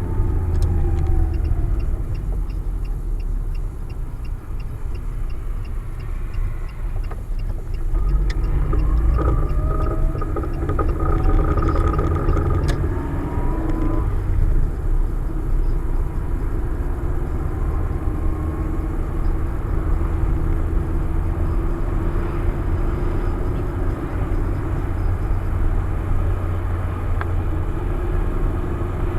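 Vehicle rumble throughout, with a high squeak of a few gliding tones from about eight to fourteen seconds in. This is the squeak being asked about; its cause is not known. A faint, fast, regular ticking runs through the first half.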